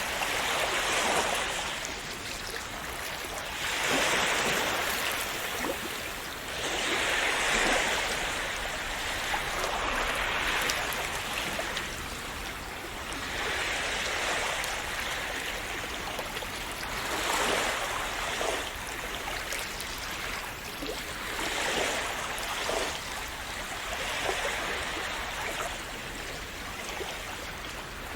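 Small, calm sea waves washing in and breaking, a swell of surf noise every three to four seconds that fades back to a low, fizzing wash between breakers.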